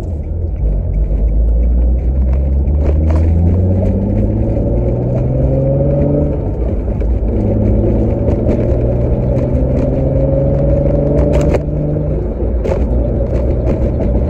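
Nissan 350Z's V6 heard from inside the cabin, accelerating through the gears with its HKS exhaust. The engine pitch climbs, drops at a shift about six seconds in, climbs again, and drops at a second shift near the end.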